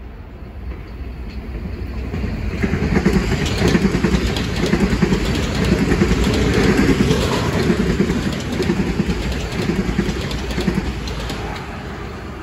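Metro-North M7A electric multiple-unit train running past on the far track, its wheels clicking over rail joints. The sound swells about two seconds in, holds, then fades near the end as the train draws away.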